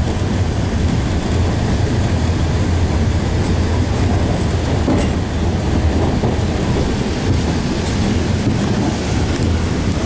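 Alishan Forest Railway narrow-gauge train heard from inside a passenger coach as it runs steadily: a constant low rumble of wheels on rail, with faint scattered clicks.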